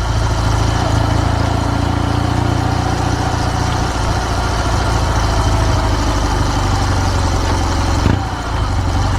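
Kawasaki W650 air-cooled parallel-twin engine running steadily through an aftermarket RS Gear Wyvern Classic muffler, a deep exhaust note, with a brief dip in level about eight seconds in.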